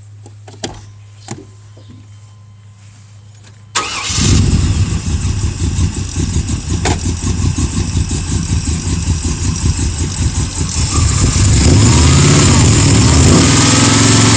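Two faint clicks, then the Blueprint 383 stroker small-block V8 fires and catches about four seconds in and runs with an uneven, pulsing idle from its 280/290-duration cam, exhaust through Moroso spiral-flow mufflers. It grows louder around eleven seconds in.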